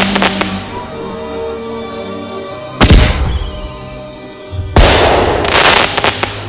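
Fireworks exploding over music: a loud bang about three seconds in, and another just under five seconds in, followed by a burst of crackling.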